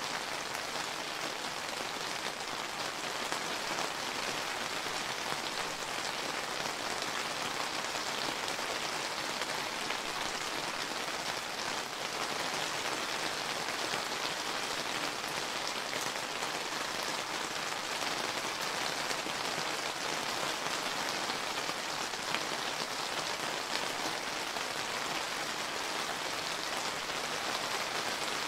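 Steady summer rain falling on surfaces: an even, continuous hiss of drops, with faint scattered patters of individual drops.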